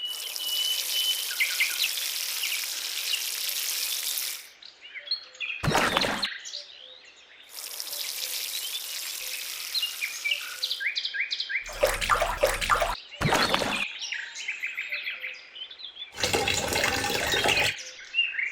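Birds chirping over running water, in several short stretches that cut in and out abruptly.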